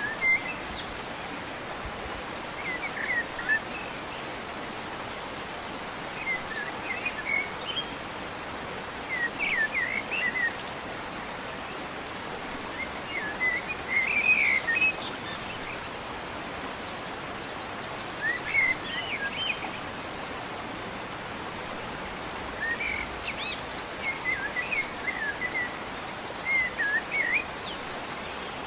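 Small birds chirping in short clusters of quick, sliding calls every few seconds, over a steady outdoor hiss.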